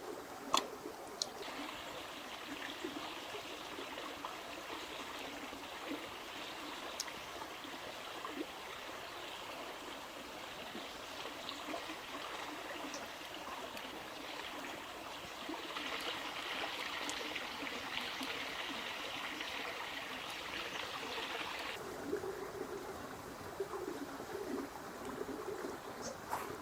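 Water running and trickling, with a sharp click near the start. The water starts about a second and a half in, runs stronger for a while, then stops abruptly.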